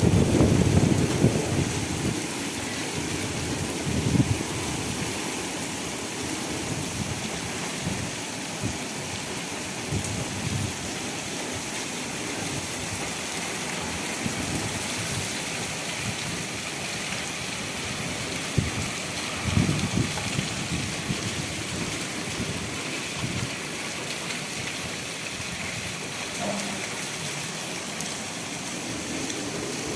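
Heavy rain falling steadily, a dense even hiss, broken by a few brief low rumbles near the start, about four seconds in and around twenty seconds in.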